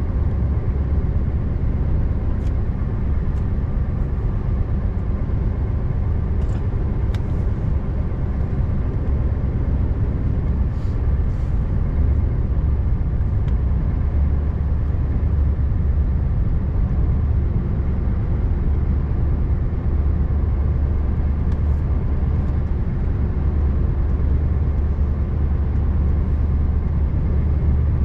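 Scania R590 tractor unit's 16-litre V8 diesel running steadily under way, a constant low rumble mixed with road noise, with a few faint scattered clicks.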